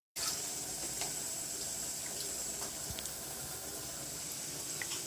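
Mutton korma sizzling and bubbling in ghee and spice gravy in a pan while it is fried down (bhuna) with the masala: a steady hiss with a few small scattered pops.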